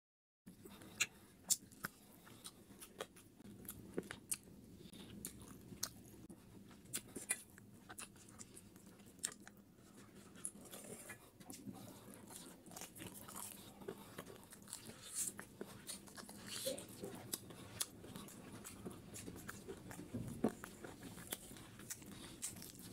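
Close-up chewing and biting of spicy duck feet, with many sharp crunches and clicks spread irregularly throughout as the feet are bitten and gnawed.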